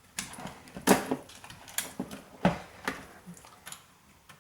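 Irregular clicks and knocks of an old hard drive's controller board and its plug-in connectors being handled and pulled apart, two sharper knocks about a second in and about two and a half seconds in.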